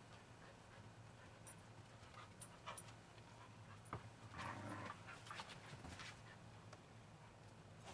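Cattle dog panting quietly, with a few light clicks and taps scattered through.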